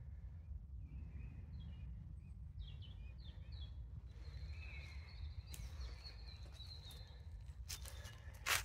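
Small birds chirping in short scattered calls over a steady low rumble, with a brief loud rustle near the end.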